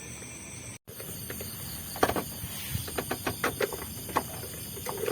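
Steady high-pitched hiss of a night-time insect chorus, broken by a brief dropout about a second in, then a run of irregular sharp clicks and knocks from about two seconds in.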